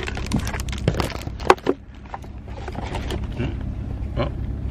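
Knocks, clicks and rattles of a phone being wedged into place in a truck cab, loudest about a second and a half in, over the truck's low steady running hum.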